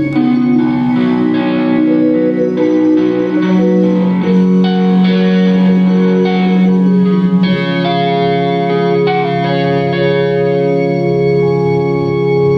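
Live band playing an instrumental passage: long sustained organ chords over guitar and a steady bass line, the chords changing a few times.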